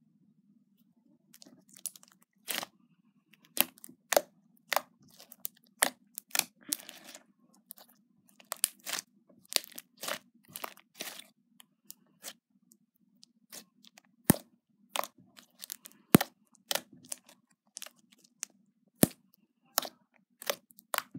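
Slime being squeezed, poked and stretched by hand, giving off irregular sharp clicking and crackling pops, some much sharper than others, over a faint steady hum.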